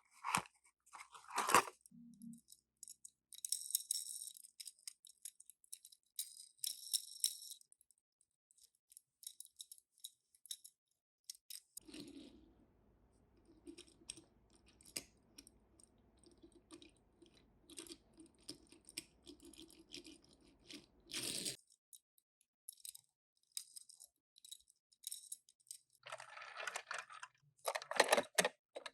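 Scattered clicks, clinks and crinkly rustles of small die-cast Tomica toy cars and their packaging being handled, with a faint steady low hum through the middle.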